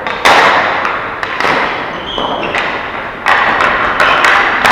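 Ball hockey play: repeated sharp thuds and taps of sticks and the ball, with about five loud hits that echo briefly and a few lighter clicks between them.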